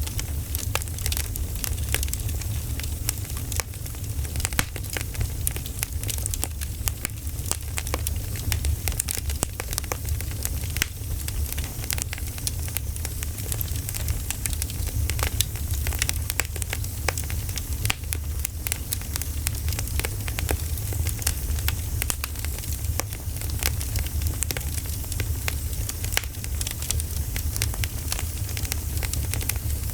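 Campfire crackling: many irregular sharp pops and snaps over a steady low rumble of burning wood.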